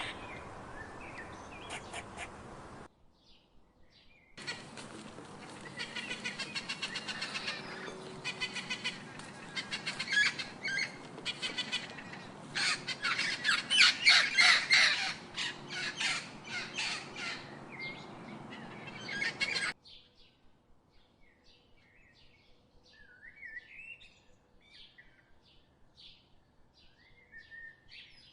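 Birds calling in a series of separate clips: a long stretch of loud, rapid, repeated harsh calls, then after a sudden cut, fainter scattered chirps.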